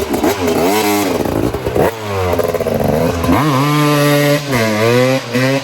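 KTM 250 SX two-stroke dirt bike engine being revved hard over and over, its pitch rising and falling, then climbing about three and a half seconds in and holding high with brief dips.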